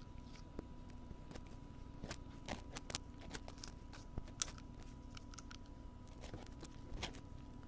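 Wooden ear pick scraping and tapping close against the ear microphone, a run of short crisp scratches and clicks at irregular intervals, one sharper click about four and a half seconds in.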